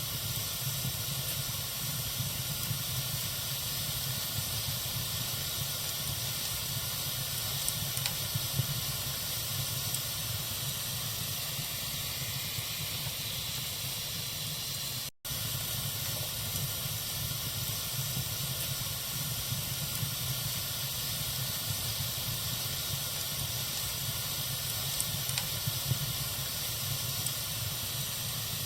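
Bonfire burning with a steady hiss and a few faint crackles. The sound cuts out for an instant about halfway through.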